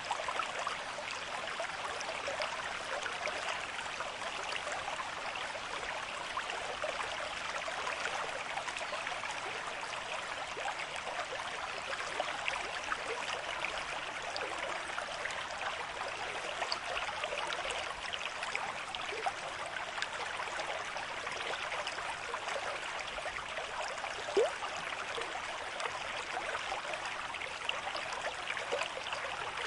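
A stream of moderate flow running over rocks, a steady rush of water with many small splashes and gurgles. One brief, sharper splash comes about 24 seconds in.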